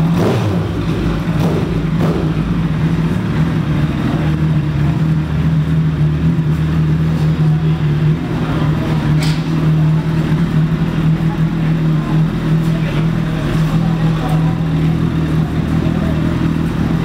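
A motorcycle engine running steadily at an even pitch, with a brief sharp click about nine seconds in.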